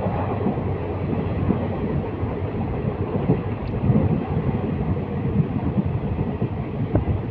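Local passenger train running, heard from inside the coach: a steady rumble of the wheels on the track, with wind on the microphone.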